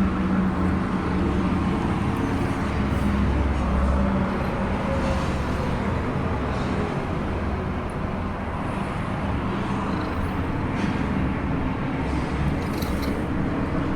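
Steady low rumble with a constant hum, unbroken throughout.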